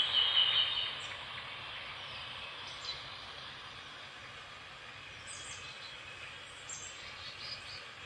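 Wild birds calling in the rain: a louder call right at the start, then short high chirps about five times. Under them runs the steady hiss of a car rolling slowly along a wet road.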